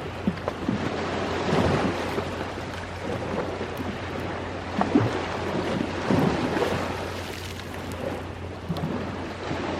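Ocean waves washing ashore in slow surges, with a wood fire crackling and giving off short sharp pops.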